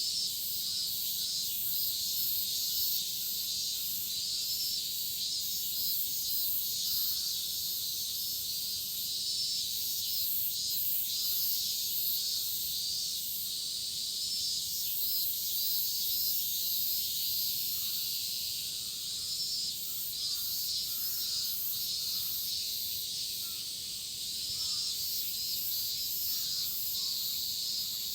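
Chorus of cicadas buzzing steadily, a dense shrill drone with a pulsing upper layer, in midsummer.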